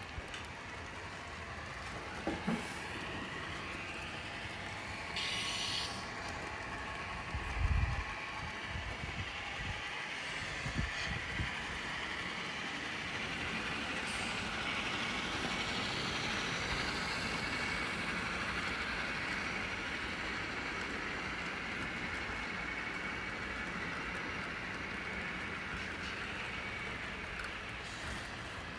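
HO-scale model trains running on the layout: a steady whir of motors and wheels on the track, with a few short low thumps in the first dozen seconds.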